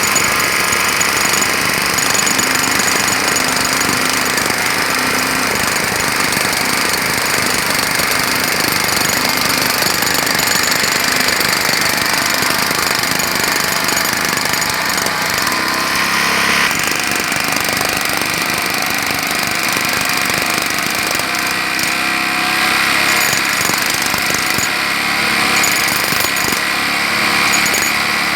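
Jackhammer hammering continuously in rapid strikes, loud and unbroken.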